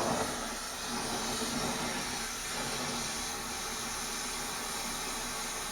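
A steady, even hiss with no clear pitch or rhythm.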